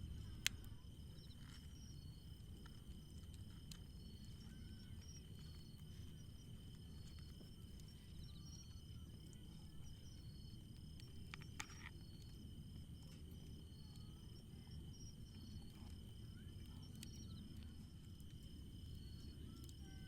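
Faint outdoor night ambience of insects: a steady high trill and short chirps repeated several times a second, over a low steady rumble, with a couple of sharp clicks.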